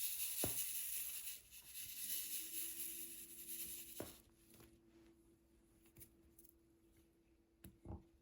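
Diamond painting at close range: a scratchy rustle for the first few seconds, then quieter, with a few light taps of the drill pen and resin drills on the canvas or tray. A faint steady hum comes in about two seconds in.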